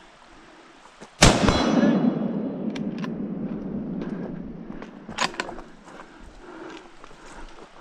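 A single rifle shot about a second in, its report rolling away in a long echo over several seconds, followed later by a few short sharp clicks.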